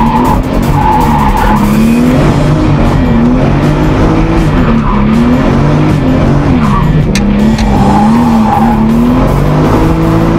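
Nissan S13's engine heard from inside the cabin while drifting, its pitch rising and falling as the revs climb and drop again and again, with tyre squeal near the start and again late on.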